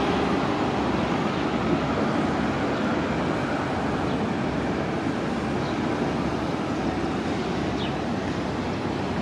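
City bus engine running steadily amid bus-terminal traffic noise, easing off slightly in level.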